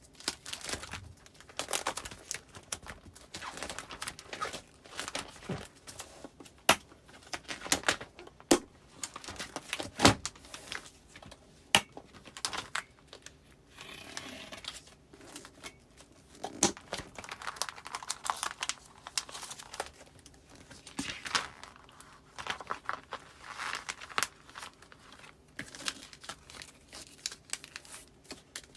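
Postcards and plastic file pockets being handled: crinkling and rustling, with scattered sharp clicks and taps, the loudest about ten seconds in.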